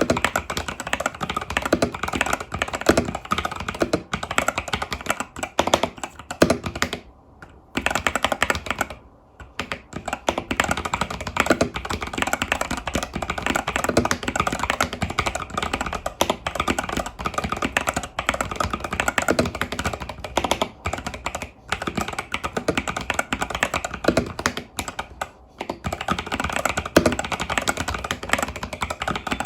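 Continuous typing on an Epomaker TH80 Pro mechanical keyboard with Epomaker Budgerigar tactile switches and stock keycaps: a dense run of keystrokes, broken by two short pauses about a quarter of the way in and another near the end.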